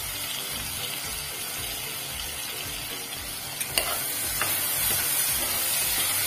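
Boiled elephant foot yam cubes sizzling in hot oil and spices in a steel pressure cooker as turmeric is added. A little past halfway a spatula starts stirring them, louder, with a couple of sharp knocks against the pot.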